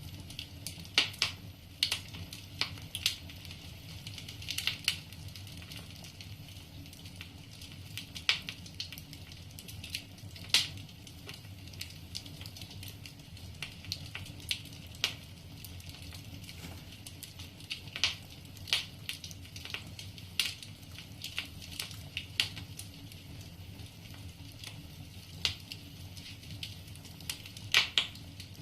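Wood fire burning in a fireplace: logs crackling with irregular sharp pops, some much louder than others, over a steady low rumble.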